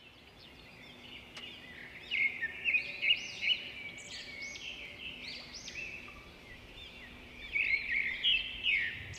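Bird calls: quick runs of short, high, rising-and-falling chirps in clusters, loudest a couple of seconds in and again near the end, over faint outdoor hiss.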